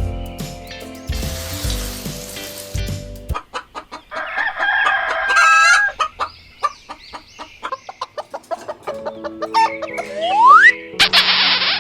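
Music for the first few seconds, then a rooster crowing once and chickens clucking in quick short calls, with a short rising whistle and a hiss near the end.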